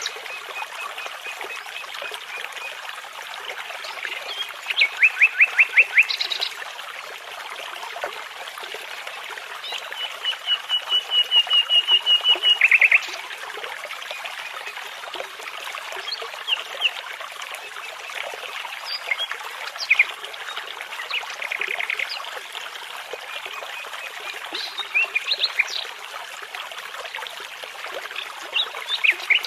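Nightingale singing over a babbling brook: phrases of rapidly repeated notes, one long series swelling in loudness for about three seconds near the middle, over the steady rush of the stream.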